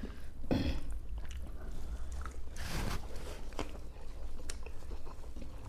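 Chewing and wet squishing of soft South Indian tiffin food being eaten, with small irregular clicks and rustles.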